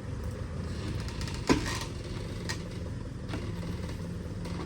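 An engine idling steadily, with one sharp knock about a second and a half in and a few lighter clicks after it.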